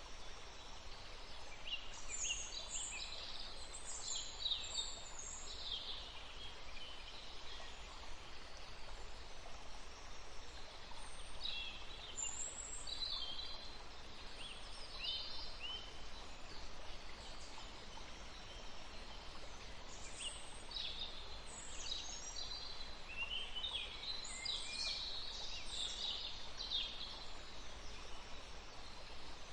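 Birds chirping in several bouts of quick, high calls over a steady background hiss.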